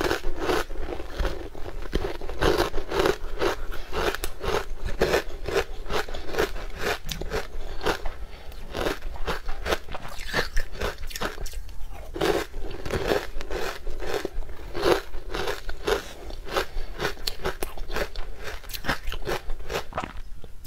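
Close-miked crunching and chewing of a crunchy, crumbly green food: a dense run of quick crunches, several a second, picked up by a clip-on microphone near the mouth.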